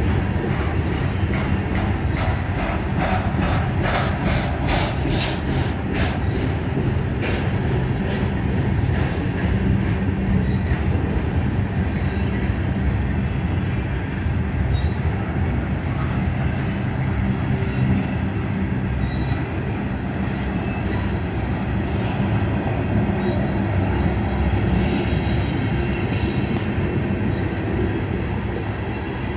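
CSX freight train's open-top gondola cars rolling past with a steady rumble of steel wheels on rail. A run of rapid clicks comes over the rail joints a few seconds in, and a thin, high wheel squeal follows for a few seconds.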